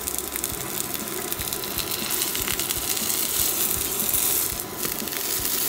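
Salmon-and-hanpen patties sizzling and crackling steadily in hot sesame oil in a frying pan over medium heat. A spatula is worked under one patty to turn it near the end.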